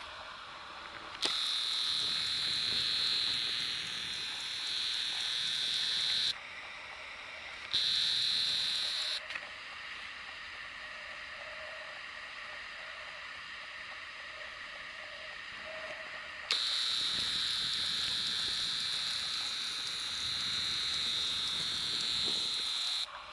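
Sony RX100 V compact camera's motorised zoom lens whining through the camera's own microphone, in three separate runs that start and stop abruptly, the longest about six seconds. Between runs there is a steady hiss.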